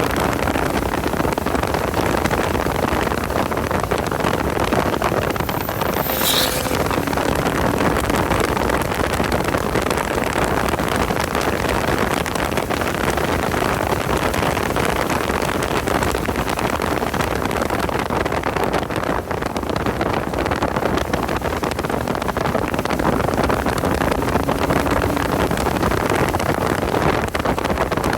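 Porsche 986 Boxster at track speed, heard from on board: a steady rush of wind and road noise with the flat-six engine faint beneath it. A brief high squeal falls in pitch about six seconds in.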